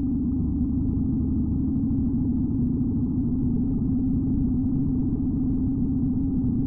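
Steady engine and road noise of a vehicle under way: a low, even drone that holds the same pitch throughout.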